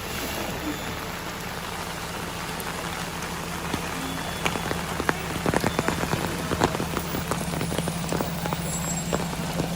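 Rain falling, with many sharp drop hits from about halfway through, over the low, steady running of a truck's diesel engine.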